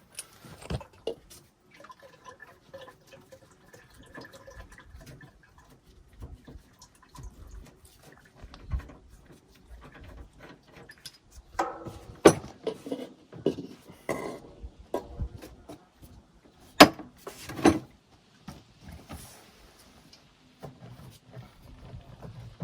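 Used oil draining and dripping into a plastic jug, with scattered clicks and several sharp knocks of the jug and tools being handled.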